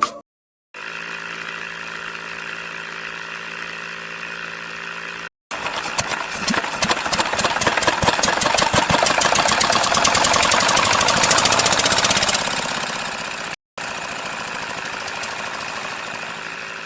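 Small motor of a toy borewell drilling model running with a steady hum. In the middle stretch a loud, fast rattling clatter builds up and then eases off, broken off by abrupt cuts.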